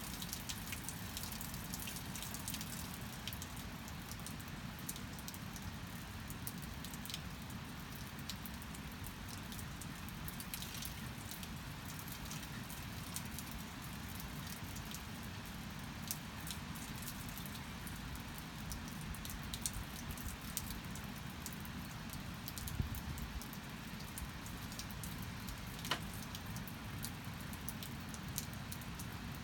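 Steady rain falling, with scattered drips ticking through it and one sharper drip near the end.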